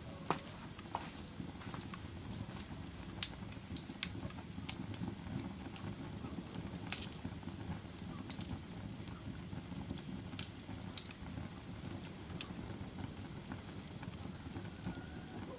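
Wood fire burning, with a steady low rumble and irregular sharp crackles and pops, a handful spaced a second or more apart.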